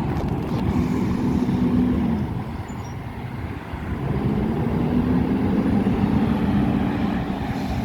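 Heil Rapid Rail side-loader garbage truck's engine running with a low rumble, revving up twice: briefly about a second in, then longer from about four seconds in.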